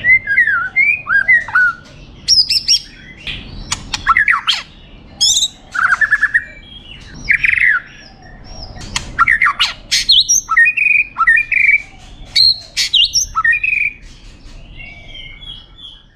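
White-rumped shama singing a long, varied song of fluting whistled phrases that slide up and down in pitch, broken by sharp clicks and harsh notes. The song thins out and quietens near the end.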